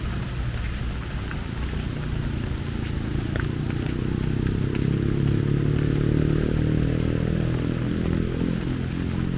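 Steady rain hiss with scattered drop ticks, over a low rumble that swells in the middle and eases toward the end.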